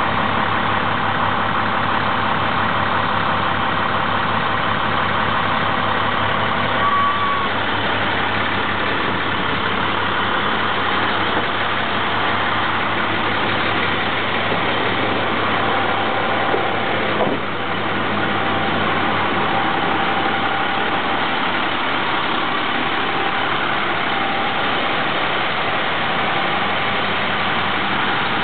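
International DT466E inline-six diesel idling steadily shortly after a cold start, heard from inside the truck's cab.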